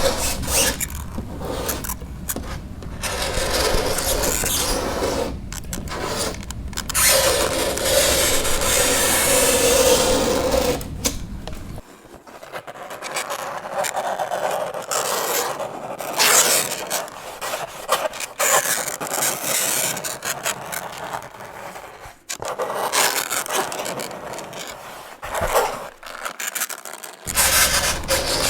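Fingernails scraping across a chalkboard in a series of long grating strokes with short breaks between them, a few strokes carrying a faint squealing tone.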